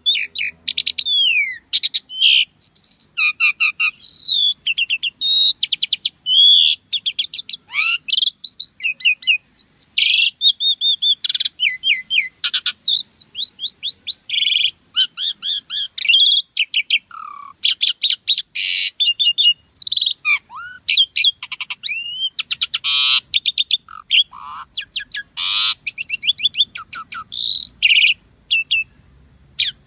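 Jalak suren (pied starling) singing non-stop: a rapid, varied stream of whistles, rising and falling glides and fast rattling chatter.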